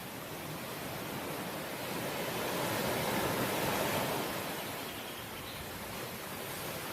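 Ocean waves breaking on the shore, one wave swelling to its loudest about halfway through and then easing back to a steady wash.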